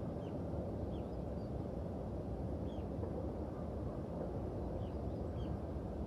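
Small birds giving brief, high chirps about six times over a steady low rumbling noise.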